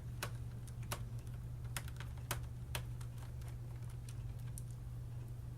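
Irregular small clicks and ticks of a Phillips screwdriver turning a keyboard-retaining screw out of the bottom of an HP Pavilion 17 laptop, over a steady low hum.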